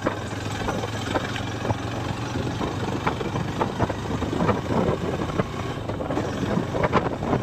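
Motorcycle engine running steadily, a low even hum under road and wind noise with a few scattered knocks.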